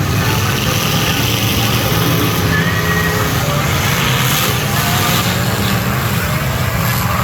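Demolition derby cars' engines running in a loud, steady drone.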